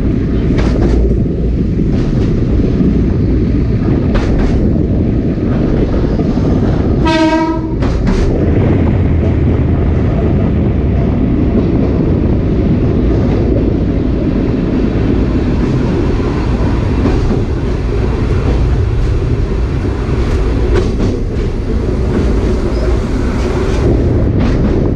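Sagano Romantic Train running along the line: a steady rumble with the wheels clacking over rail joints. About seven seconds in, the train's horn sounds one short blast.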